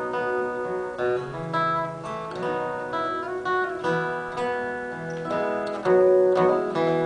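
Acoustic guitar playing an instrumental passage of a song, with picked and strummed notes and no singing.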